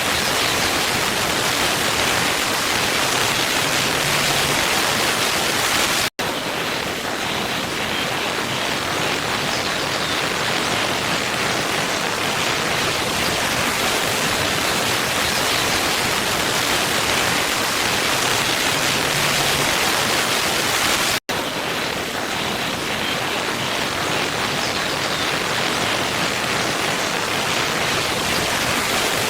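Steady rushing of a waterfall, an even wash of falling water with no other sounds. It cuts out for an instant twice, about fifteen seconds apart.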